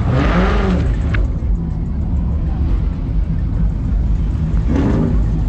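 A car engine running with a steady low rumble. A voice or music comes in briefly over it near the start and again near the end.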